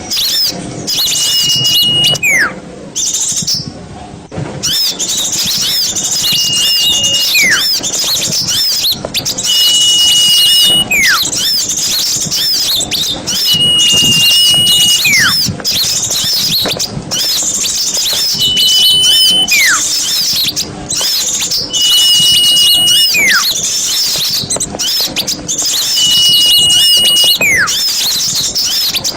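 Small songbirds singing: continuous high, rapid twittering, over which a held high whistle ending in a downward slur repeats about every four seconds.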